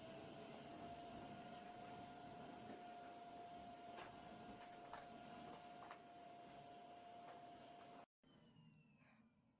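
Vacuum cleaner running with a steady motor whine over a hiss, having just spun up, with a few faint knocks from about four seconds in. It cuts off abruptly about eight seconds in.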